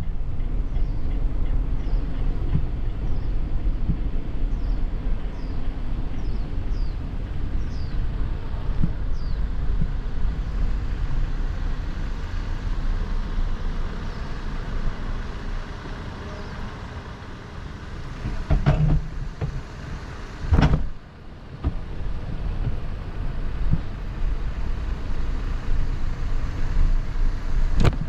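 Steady low outdoor rumble, with a run of short, high, falling chirps about once a second in the first eight seconds, and a couple of brief knocks about two-thirds of the way through.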